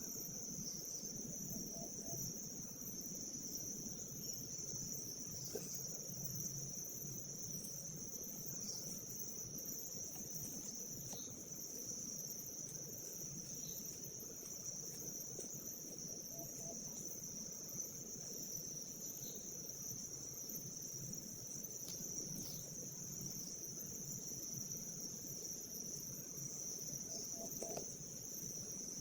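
Steady, high-pitched chorus of insects shrilling without a break, over a low background rumble.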